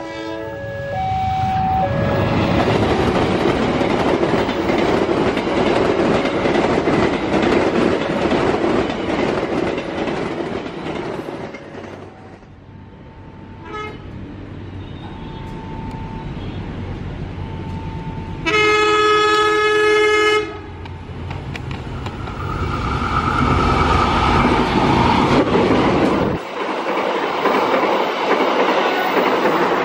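Passenger trains passing at speed, with a long rumbling roar of wheels and carriages. A little past halfway a locomotive horn sounds loudly for about two seconds, and near the end carriages run past close by with wheels clicking over the rail joints as two trains pass each other.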